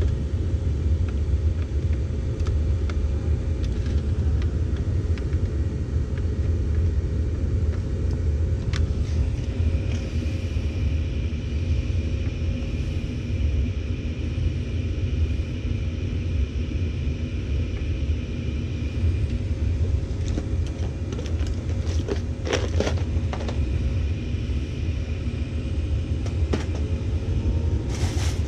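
Steady low rumble of a vehicle driving, heard from inside the cabin, with a few faint clicks about three quarters of the way through.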